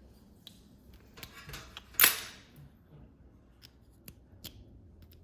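Light clicks and a brief rustle of wiring and small parts being handled, then one loud sharp snap about two seconds in, as a wire is worked free of a push-in terminal in the heater's wiring.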